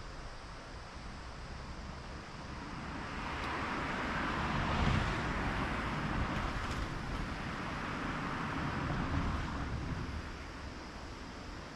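A car driving past: road and tyre noise swells over a couple of seconds, is loudest about five seconds in, and fades away near the end.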